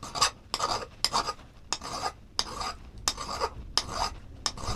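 Flintknapping: rapid, repeated scraping strokes of a tool against a stone point held on a leg pad, as the knapper works to remove a hinge fracture.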